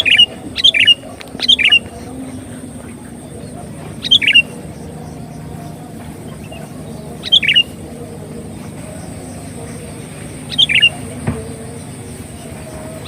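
Sooty-headed bulbul (kutilang) calls used as a lure: short, bright phrases that fall in pitch. Three come in quick succession at the start, then single calls follow about every three seconds.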